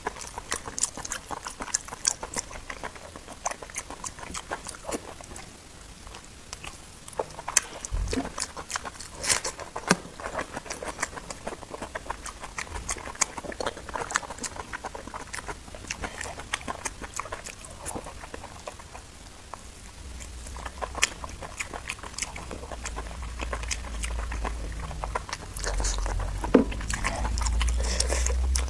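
Close-miked wet chewing and sticky mouth sounds of someone eating boiled pork intestine dipped in sauce: a steady stream of small clicks and squelches. A low rumble builds up in the last third.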